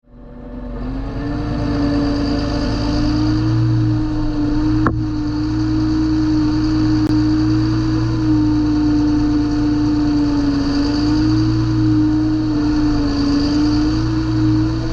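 John Deere 8320 tractor's six-cylinder diesel engine running steadily, with a strong, even hum over the engine note. It fades in at the start, and there is one sharp click about five seconds in.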